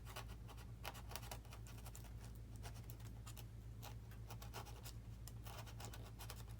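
A tool cutting and scraping a channel into a foam model-airplane wing: faint, irregular scratchy strokes in quick succession, over a steady low hum.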